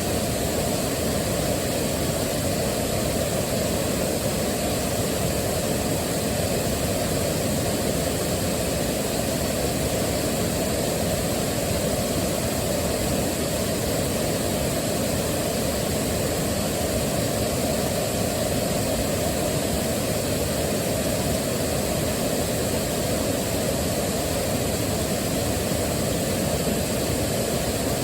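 Waterfall rushing, a steady unbroken wash of water noise, heaviest in the low end.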